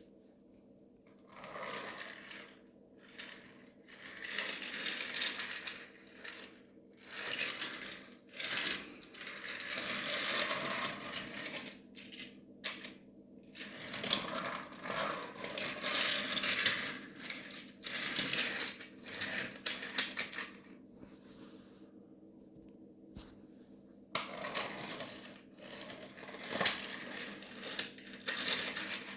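Small die-cast Thomas toy trains rolling and clattering along toy track in a test run, with metallic clicks and rattles of wheels and couplings. The clatter comes in uneven stretches with short pauses, and a longer lull about three quarters of the way through.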